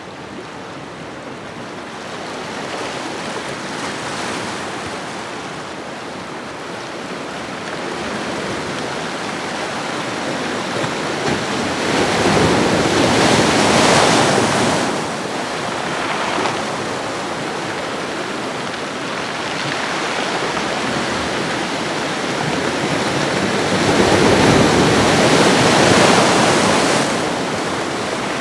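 Ocean waves washing onto a shoreline, a steady rushing surf that swells loudly twice, about twelve seconds in and again near the end, as waves break and then ebb away.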